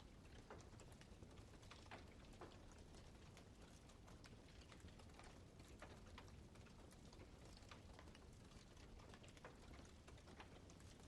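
Faint wood fire crackling, with irregular sharp snaps and pops from the burning wood over a steady low rumble.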